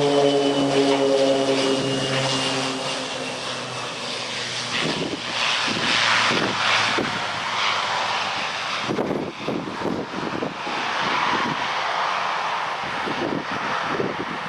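Beechcraft C90 King Air's twin PT6A turboprops passing close, the propeller drone and high turbine whine falling in pitch as it goes by. From about five seconds in, a rough, uneven rushing noise takes over.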